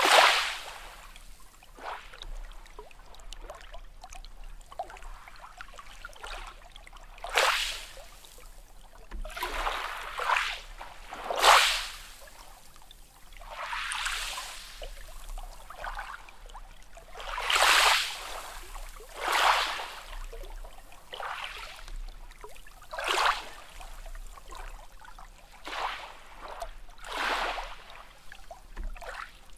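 Small sea waves washing in and splashing in quick, irregular surges, one every couple of seconds.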